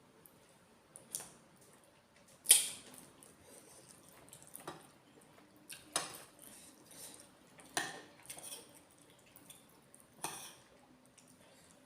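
Cutlery clinking and scraping against dishware while eating: about six sharp clinks with lighter clatter between them, the loudest about two and a half seconds in.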